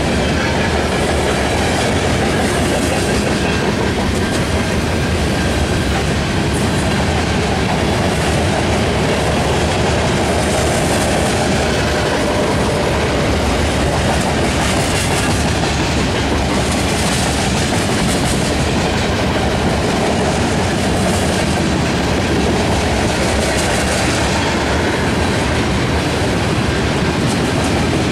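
Freight cars of a passing train rolling by: lumber-loaded centerbeam flatcars, then tank cars, their steel wheels making a steady, even rumble and clatter on the rails.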